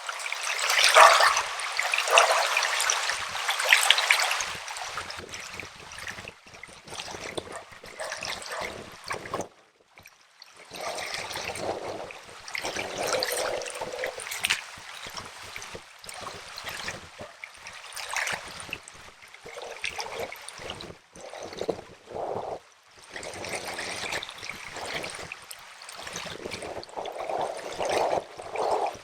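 Shallow river trickling and burbling over stones, a steady rushing noise that cuts out briefly about ten seconds in and then resumes.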